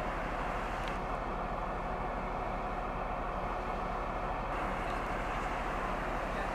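Steady running noise of a passenger train on the move: an even rush with a constant hum and no change in level.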